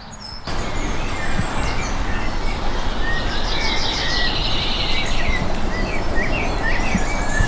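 Songbirds singing, with short chirps and a quick repeated trill, over a steady rushing noise that starts about half a second in.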